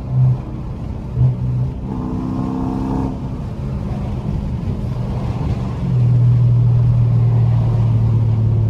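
Straight-piped Dodge Charger Scat Pack's 392 Hemi V8 exhaust running under way, with two short loud blips near the start. About six seconds in it settles into a louder, steady low drone.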